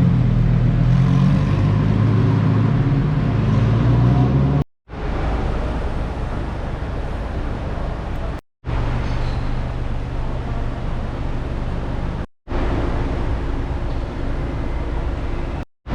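Car engines running in street traffic, in four short stretches broken by abrupt cuts. The first stretch has the loudest, deepest engine note; the later ones hold a steadier, lower-level engine hum.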